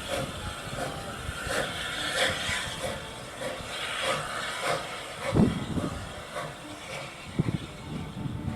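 Steam locomotive working, its exhaust beating about twice a second over a steady hiss of steam. There is a heavy low thump about five seconds in and a few sharp knocks near the end.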